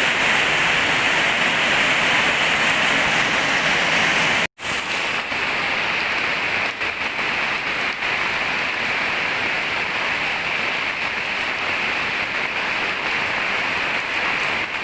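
Heavy rain pouring down steadily. It cuts out for an instant about four and a half seconds in, then carries on a little softer.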